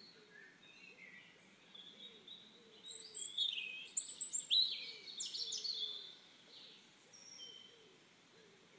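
Birdsong: scattered high chirps and short whistled calls, busiest from about three to six seconds in, over a faint low note repeating about twice a second.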